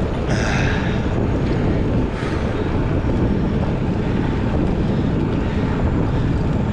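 Wind rushing over the microphone of a camera on a moving bicycle, a steady low rumble, with two brief hissing gusts, one just after the start and another about two seconds in.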